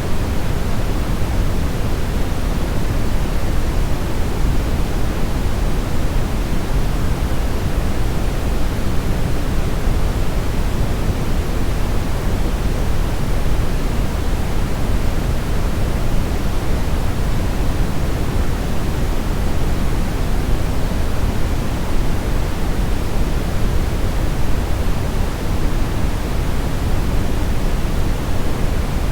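Steady brown noise: a constant, even hiss heaviest in the deep low end and fading toward the highs, with no changes.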